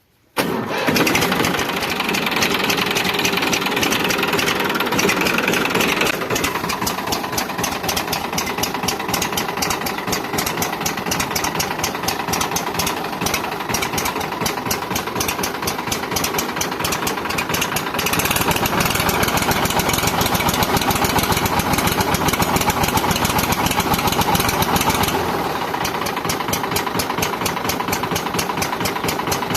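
Massey Ferguson 5245 tractor's three-cylinder diesel engine running with a steady diesel clatter. It comes in abruptly about half a second in, revs up for several seconds past the middle, then settles back.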